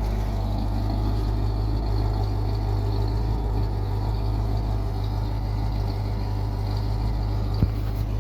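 1952 Chevrolet pickup's engine running at a steady idle on its first startup. There is a single short click near the end.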